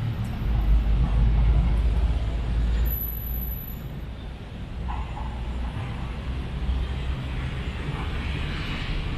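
Road traffic: a heavy vehicle rumbles past in the first three seconds and fades, leaving a steady traffic rumble.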